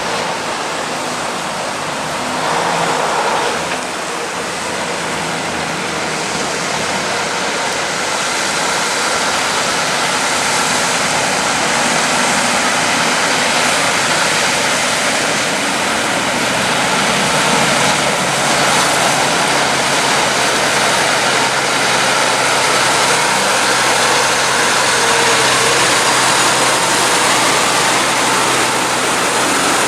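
Heavy trucks and road traffic: a steady rushing hiss of vehicles that builds slowly, with a low engine hum joining about halfway.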